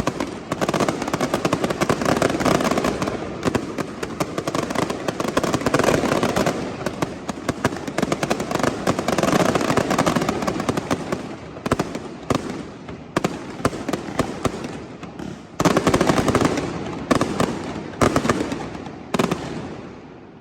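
Fireworks: a dense, rapid barrage of cracks and bangs that thins into separate clusters of bursts in the second half, then dies away near the end.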